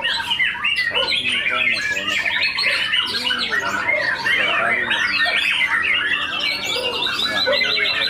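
A dense chorus of many caged white-rumped shamas (murai batu) singing at once, with fast overlapping trills and chirps.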